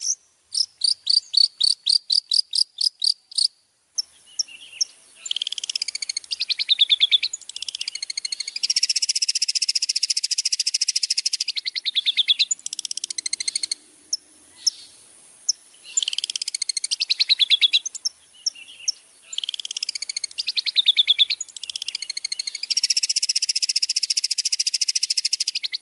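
Songbird song-tutor recording: a series of quick, clipped high notes for the first few seconds, then a dense, rapid, buzzy trilled song in repeated phrases broken by short pauses.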